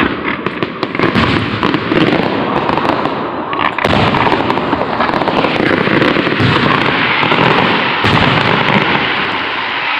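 Fireworks display: a dense, unbroken barrage of bursts and crackling, with louder bangs about four and eight seconds in.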